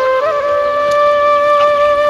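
Background music: a solo flute plays a quick turn of notes, then holds one long steady note.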